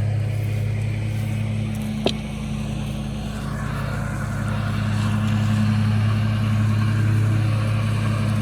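Steady low mechanical hum from a running engine or motor, with one sharp click about two seconds in.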